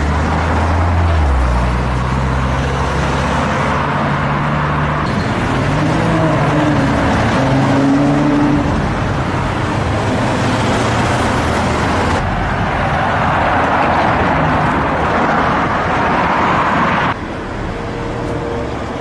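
Car engines accelerating along city streets amid traffic noise, in several short clips that switch abruptly from one to the next. Near the middle an engine note rises and falls.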